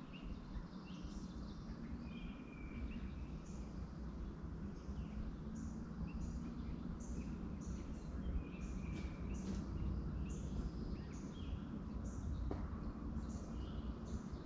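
Small birds chirping, many short high calls repeating over and over, over a steady low hum.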